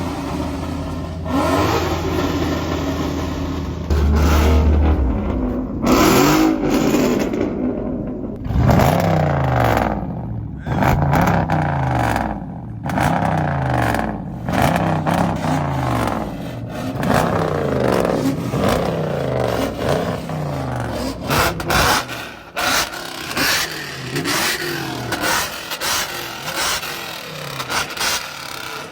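Car engine revving over and over, its pitch climbing and dropping about once every second and a half, with other loud sudden noises around it.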